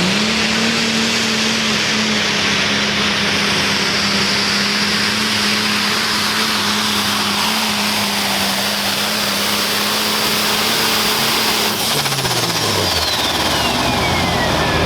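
Pulling tractor's turbocharged diesel engine held wide open on a pull, a loud steady drone, then backed off about twelve seconds in: the engine note drops and a turbo whistle falls away near the end.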